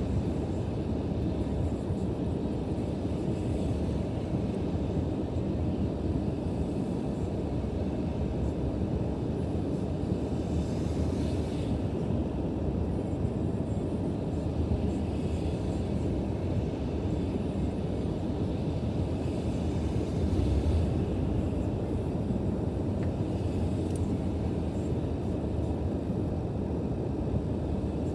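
Steady low rumble of outdoor ambience in rain and wet slush, swelling briefly twice, about eleven and twenty seconds in.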